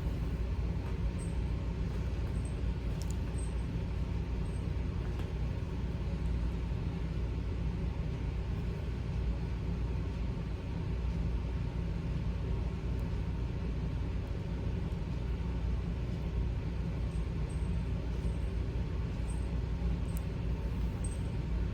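A steady low rumble with a few faint, brief high ticks scattered through it.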